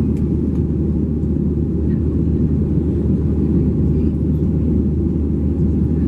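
Steady, loud cabin drone of a Boeing 737-700 in flight: the CFM56 engines and rushing air heard from a window seat behind the wing.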